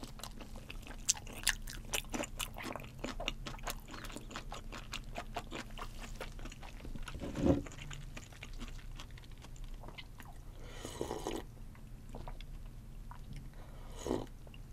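Close-miked chewing of raw salmon sashimi: a dense run of small wet mouth clicks over the first six seconds. A single low thump comes about halfway, and the later part holds a few soft sips and swallows as she drinks seaweed soup from an earthenware bowl.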